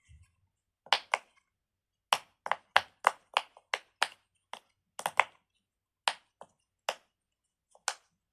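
Pop It fidget toy being pressed: about twenty sharp pops in an irregular run, some in quick pairs, as the bubbles are pushed in.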